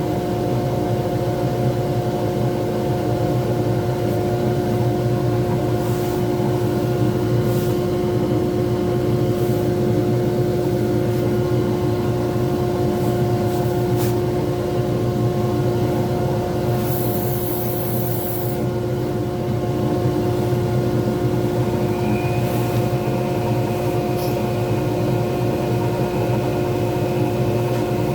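Small pen-turning lathe running steadily with an even motor hum, a few light ticks and a short hiss about two-thirds of the way through. A faint high whine joins near the end.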